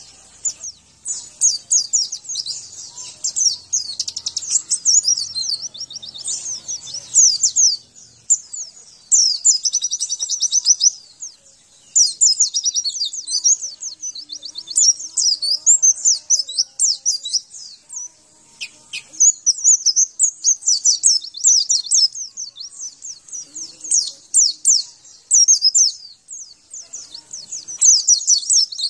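White-eye (pleci) song: fast, high-pitched twittering trills in continuous phrases of a second or two, separated by brief pauses.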